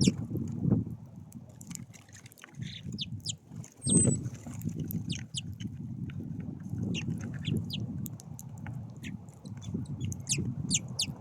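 Small songbirds calling at a feeder: many short, high chirps, several a second at times, scattered throughout over a steady low rumble.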